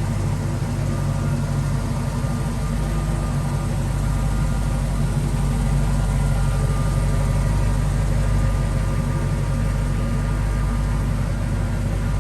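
1976 Jeep Cherokee Chief's engine idling steadily.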